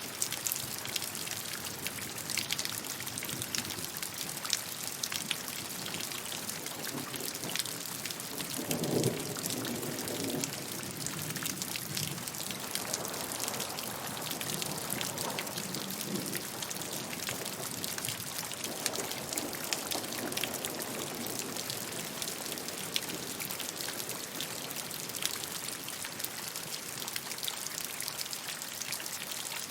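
Steady rainfall, a constant hiss with many individual drops ticking sharply on a near surface. A louder, lower swell of water sound comes about nine seconds in, with weaker swells later.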